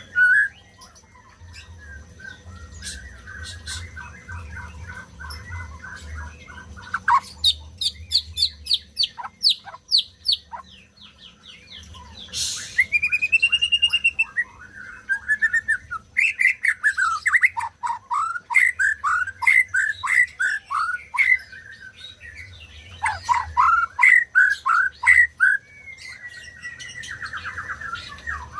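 White-rumped shama (murai batu) singing a long, varied song: rapid trills, quick up-and-down whistled notes and bursts of repeated falling phrases, broken by short pauses.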